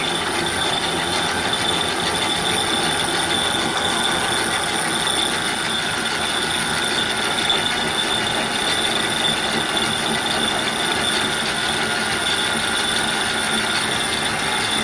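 Electric cockpit winch hauling in the mizzen halyard to raise the mizzen sail: a steady, high-pitched motor whine over a grinding hum.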